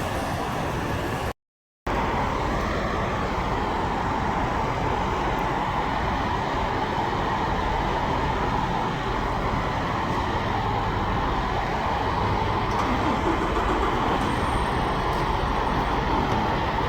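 Steady road traffic noise, an even rushing rumble with no horn blowing. The sound cuts out completely for about half a second near the start.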